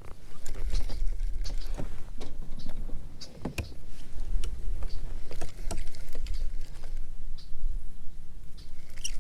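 Fishing kayak on the water: a low rumble that rises and falls, with scattered clicks and knocks of gear on the hull.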